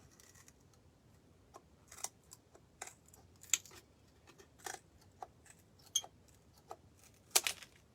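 Scissors snipping and crunching through small twigs, irregular sharp cuts a second or so apart, a few louder snaps among them.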